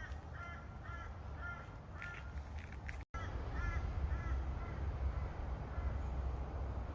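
A bird giving short repeated calls, about two a second, in two runs broken by a brief gap about three seconds in, over a low steady rumble.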